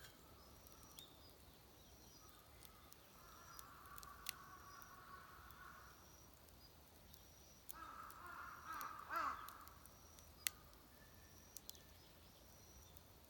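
Crows cawing in two bouts, about three seconds in and again near eight seconds, over faint high chirping and a few sharp clicks.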